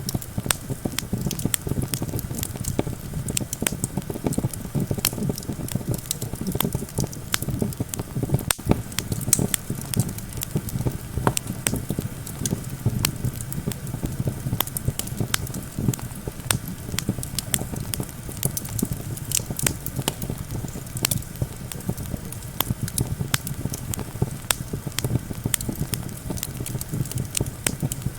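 Campfire crackling with many sharp pops, over a steady low rumble of wind.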